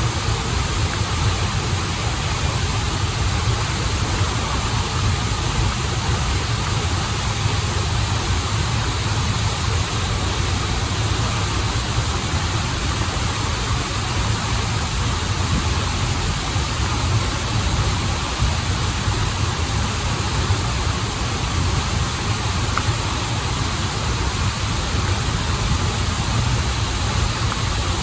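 Waterfall and stream water running steadily, a constant rushing noise with a deep low rumble underneath that does not change.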